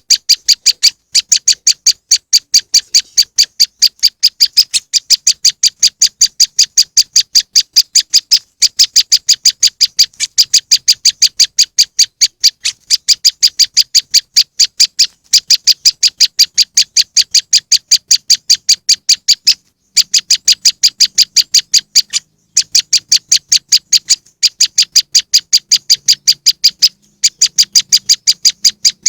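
Prenjak lumut bird call, a fast, even run of short sharp high notes repeated without let-up. The runs are broken by brief pauses every few seconds.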